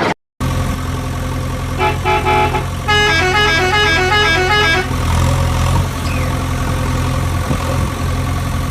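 A steady low engine hum, with a vehicle's electronic musical horn playing a short tune of stepped beeping notes from about two seconds in to about five seconds in.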